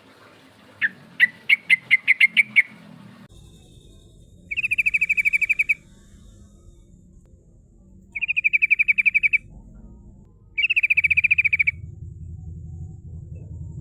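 Yellow-vented bulbul (trucukan) singing: a run of sharp chirps that speeds up, then three fast rolling trills, each about a second long, with pauses between.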